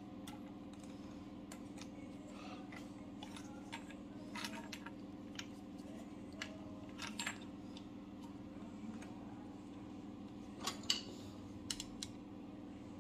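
Scattered small clicks and light metallic taps as boiler parts and retaining clips are handled and worked into place, over a steady low hum. The loudest clicks come in a quick cluster near the end.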